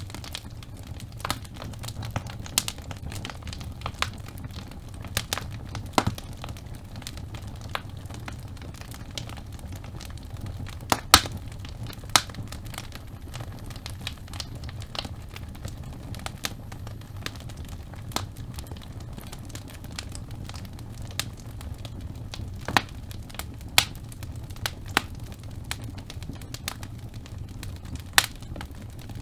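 Wood fire burning in a fireplace: a steady low rumble of the flames with irregular sharp crackles and pops from the logs, a louder pop about eleven seconds in.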